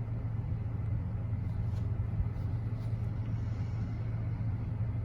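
Steady low engine rumble with an even hum, not rising or falling.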